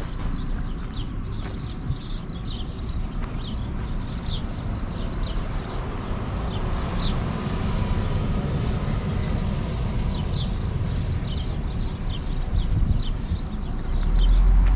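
Small birds chirping busily and repeatedly, over a steady low rumble of outdoor background noise that gets louder near the end.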